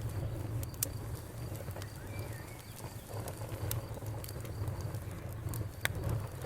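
Campfire burning: a steady low rumble of the flames with scattered sharp crackles and pops from the wood at irregular intervals.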